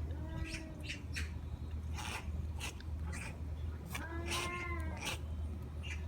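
Domestic cat meowing twice: a short meow just after the start and a longer, drawn-out one about four seconds in. Sharp clicks are scattered between the meows, over a steady low hum.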